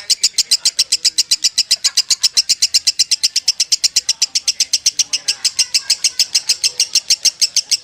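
Lovebird in a long, unbroken 'ngekek' chatter: a fast, even string of sharp, high notes, about ten a second, running without a pause. This is the 'konslet' (short-circuit) style of continuous song.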